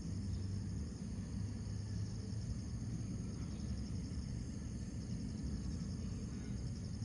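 A steady chorus of insects, a high, fast-pulsing trill, over a low steady rumble.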